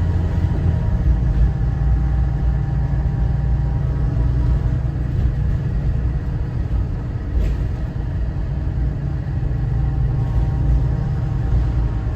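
Cummins ISB 6.7 inline-six diesel of a Thomas Saf-T-Liner C2 school bus running while the bus drives, a steady low rumble.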